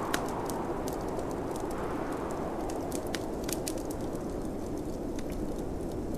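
Wood fire in a fireplace crackling, with irregular sharp pops and snaps, over a steady low rush of snowstorm wind.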